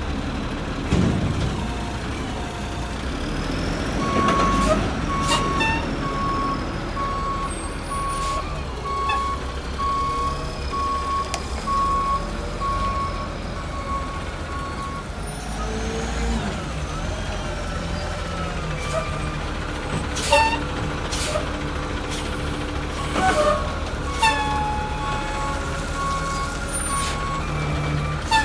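1989 WhiteGMC Xpeditor WX-STS garbage truck's diesel engine running, its reversing alarm beeping about once a second for some ten seconds from about four seconds in and again near the end. Several short, sharp air-brake hisses and knocks break in.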